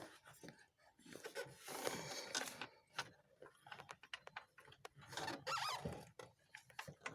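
Hand-work noises: a scatter of small clicks and taps, with two longer rustling scrapes, one starting about a second in and one about five seconds in.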